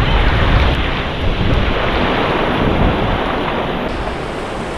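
Wind buffeting the microphone over steady surf breaking on the beach, with a heavy low rumble.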